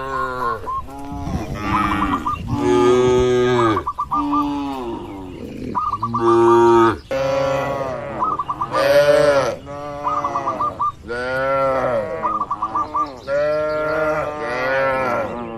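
Cattle mooing over and over, one call after another and often overlapping, as from several animals in a herd.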